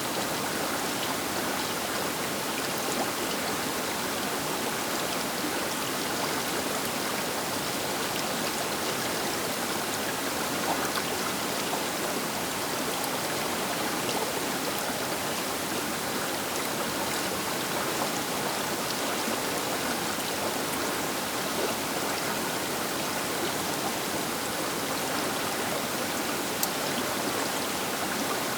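Baker River's flowing water rushing steadily, an even hiss of current with small splashes and no change in level.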